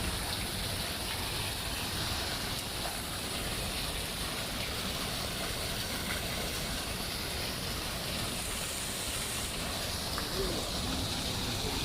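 Steady outdoor ambient noise: an even rushing hiss with no distinct events.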